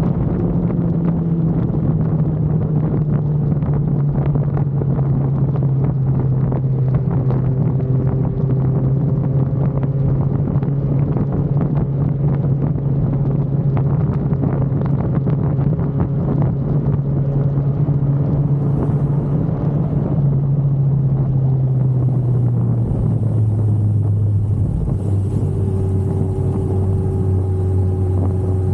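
Motorcycle engine, the rider's 2005 Yamaha R1 inline-four, running at a steady pitch under way, with wind rushing over the microphone. A little after two-thirds through, the engine note drops to a lower steady pitch.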